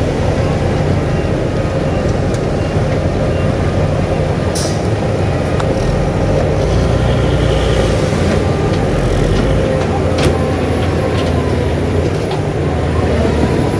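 Heavy diesel earthmoving machinery running steadily under load, with a few sharp clicks and knocks over the engine noise, the most distinct about ten seconds in.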